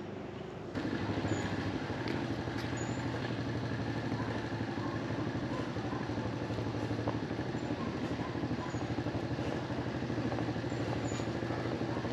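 Small engine running steadily, a constant hum that sets in about a second in, with a few faint high chirps over it.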